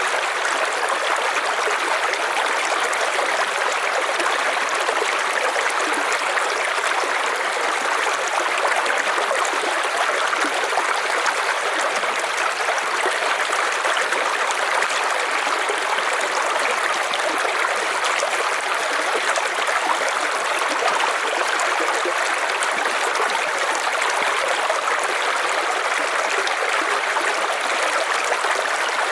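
River water rushing and splashing over stones, a steady, unchanging noise.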